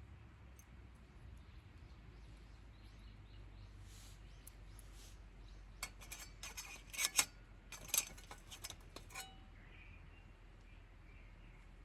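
Camp dishes and utensils being handled: a cluster of sharp clinks and clicks starting about six seconds in and lasting about three seconds, over a faint low hum.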